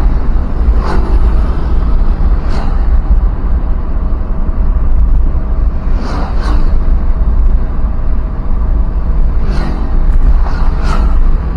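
Road vehicle on the move: a loud, steady, low rumble of driving noise, with a few short swells of noise now and then.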